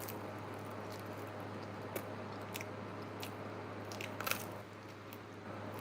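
Close-up bites and chewing of a Pizza Hut pepperoni flatbread pizza, with a few sharp crunches of the crust, over a steady low hum.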